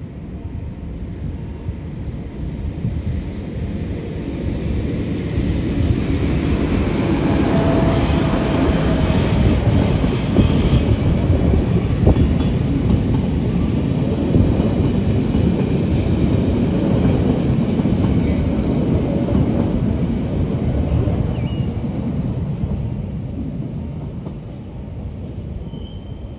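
Metre-gauge Matterhorn Gotthard Bahn regional train passing over a street level crossing, its wheels squealing for a few seconds about eight seconds in. The rumble builds, holds for about a quarter of a minute, then fades toward the end.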